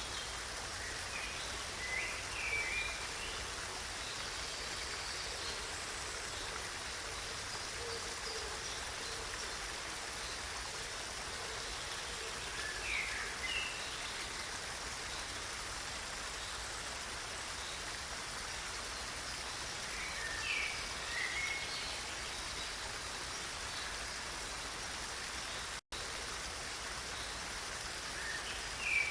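Steady rush of flowing stream water, with a small bird giving short chirps four times, several seconds apart. The sound drops out for an instant about three-quarters of the way through.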